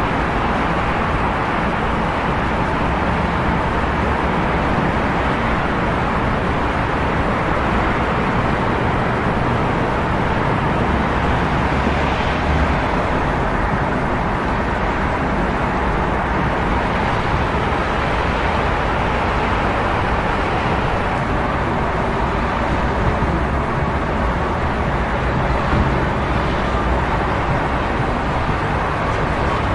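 Steady city road traffic, with vehicles going by and swelling a little as some pass close.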